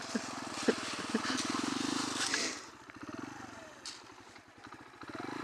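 Sinnis Apache 125cc motorcycle engine running at low revs through its D.E.P aftermarket exhaust, with a hiss of wind. It drops away about two and a half seconds in, as the bike eases off, and picks up again near the end.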